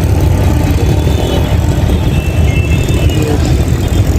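Busy city street traffic: a loud, steady low rumble of vehicles, with faint high tones above it.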